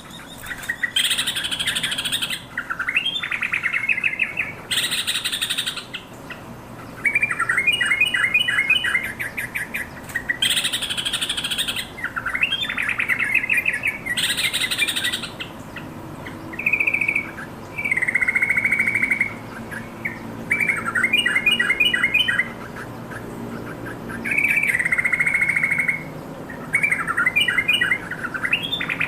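Yellow-vented bulbul singing a run of short, bubbly, chattering phrases with brief pauses between them. In the first half it gives four harsh, rasping bursts among the phrases.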